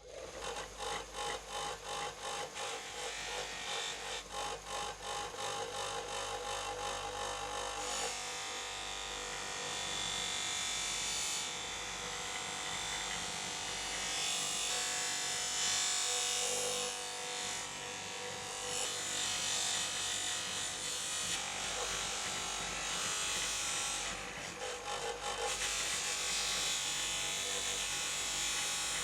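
Steel scissors being worked by hand with an abrasive, in quick back-and-forth strokes of about two or three a second. About eight seconds in this gives way to a steady powered abrasive tool running against the metal.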